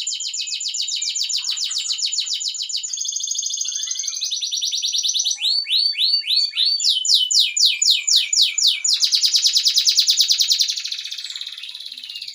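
Domestic canary singing loudly: a continuous song of very rapid trills that switches to a new trill every second or two, with a slower run of separate swooping notes about five to seven seconds in.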